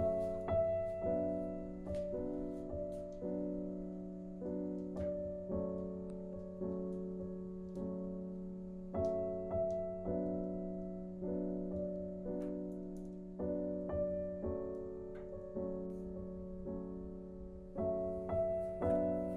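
Background music: a slow, gentle piano piece with notes struck softly in a repeating pattern.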